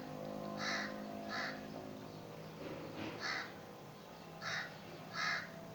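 A bird's short harsh calls, repeated five times at uneven spacing, over a faint steady hum.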